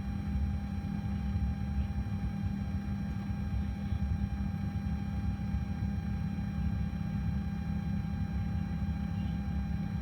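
Boeing 737 engine being turned over by its air starter at about 30% N2, before fuel is introduced, heard from inside the cockpit: a steady low rumble with a constant whine of several steady tones.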